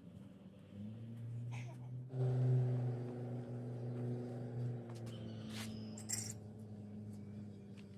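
Stihl KM 90 R KombiMotor with a tiller attachment: its small engine picks up with a brief rise in pitch about a second in, then runs at a steady pitch. A few light clicks and rattles come through.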